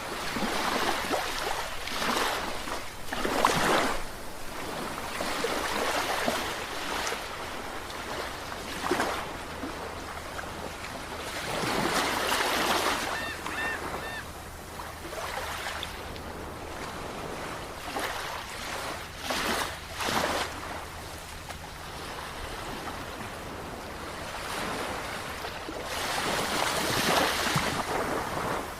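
Sea waves breaking and washing in, with loud surges of surf coming irregularly every few seconds between quieter stretches of rushing water.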